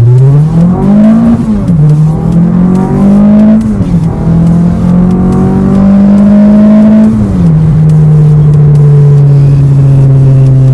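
A 2003 Toyota Celica's four-cylinder engine accelerating through the gears, heard inside the cabin. The revs climb and drop off at each of three upshifts, then hold steady at cruising speed.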